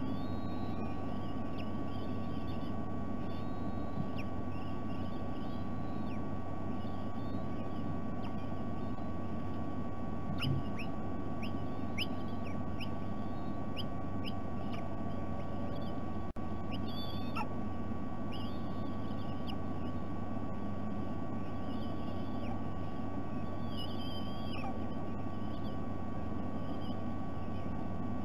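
Birds calling with short chirps, wavering whistles and quick upswept notes, scattered throughout, over a steady hum and hiss.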